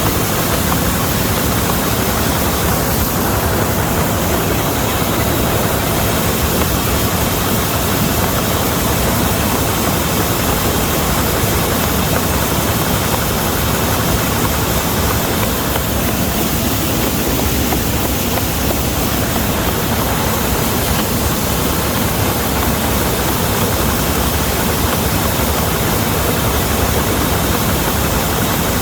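Vistula KZB-3B combine harvester running at work in grain, its engine and threshing machinery making one dense, steady noise.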